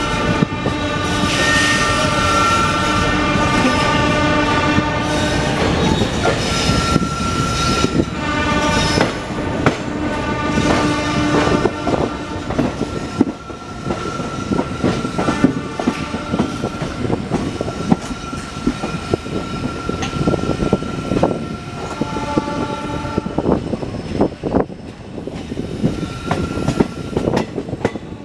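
Diesel-hauled passenger train running at speed, the coaches clicking rapidly over rail joints, while the EMD WDP-4D locomotive's multi-tone horn blows for about eight seconds at the start. Later a long, high, steady whine holds for over ten seconds, with a short burst of horn tones near its end.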